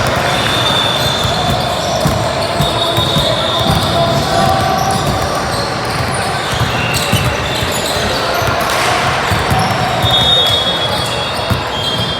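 Basketball game sound in a gym: the ball bouncing on the hardwood, indistinct chatter from players and spectators, and high squeaks now and then, echoing in the hall.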